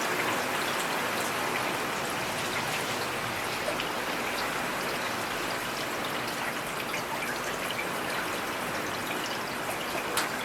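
Steady rain falling, an even hiss with many individual drops pattering and ticking on surfaces.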